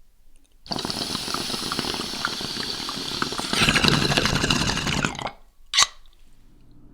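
A rushing, crackling water-like noise that gets louder about three and a half seconds in and stops abruptly a little after five seconds, followed by one sharp click.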